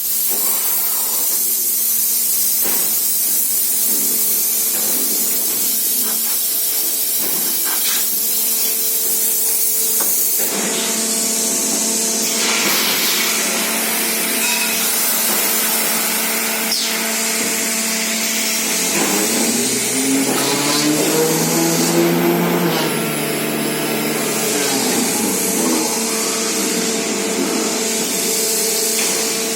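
Automatic horizontal flaskless green sand moulding machine running: a loud steady hiss over a constant hum, with occasional clicks. A pitched whine rises and falls for a few seconds past the middle.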